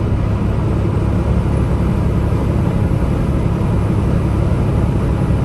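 Steady low rumble of a Peterbilt 579 semi truck's engine and road noise while driving.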